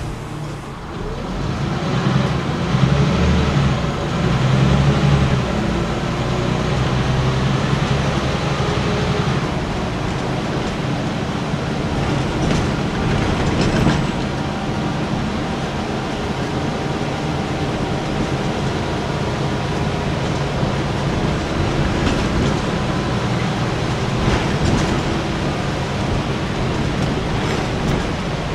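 Scania N94UB bus with East Lancs Esteem bodywork pulling away, its engine note rising and changing through the gears in the first few seconds, then running steadily with road noise.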